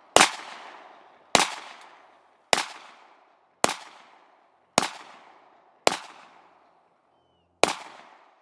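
Glock 19 9mm pistol fired seven times at a steady pace, about one shot a second with a slightly longer pause before the last. Each report trails off in an echo.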